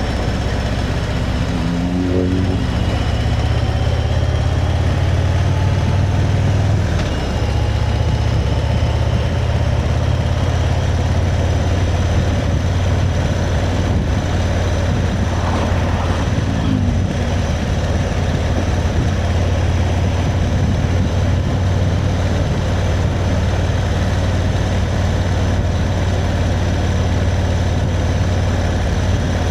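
Motorcycle engine running steadily while the bike is ridden at a constant pace, under a continuous rush of wind and road noise. Loudness dips briefly about seven seconds in.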